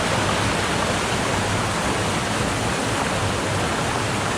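Steady rush of a small waterfall and stream running close by.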